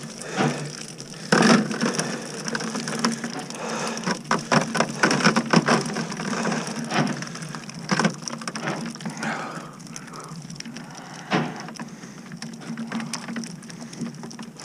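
A cast net full of freshly caught herring being handled in a small boat: rapid, irregular knocking, tapping and clattering on hard surfaces, busiest in the middle, with a steady low hum underneath.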